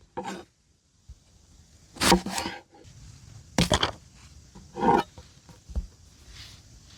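A series of about five short scraping, rustling handling noises, spaced irregularly with quiet gaps between.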